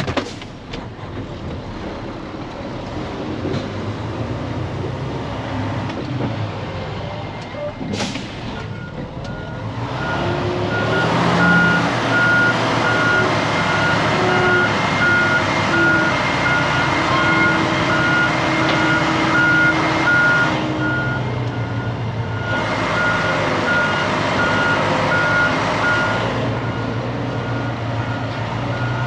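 Diesel truck reversing with its backup alarm beeping in an even rhythm over the steady running of the engine. The beeping starts about a third of the way in and stops a few seconds before the end.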